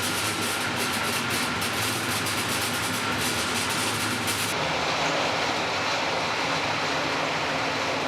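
Train running on rails: a steady rumble and rail noise.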